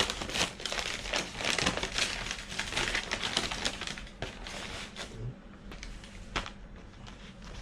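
Takeout food packaging crinkling and rustling as it is handled and unpacked. The crackling is dense for the first few seconds, then thins to a few scattered crackles and clicks.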